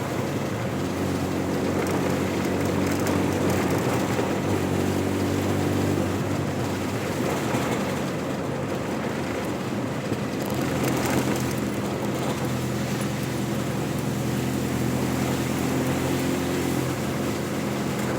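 Vehicle engine running while driving along a rough road, with road and wind noise; the engine note shifts pitch a couple of times as speed changes.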